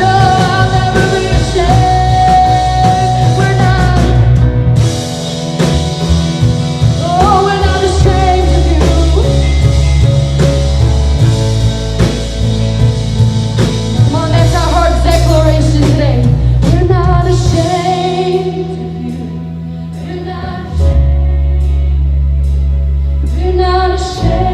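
Live church worship band playing a praise song: a singer's held, wavering notes over sustained bass and drum hits. The music eases down for a few seconds about three quarters of the way through, then comes back in fuller.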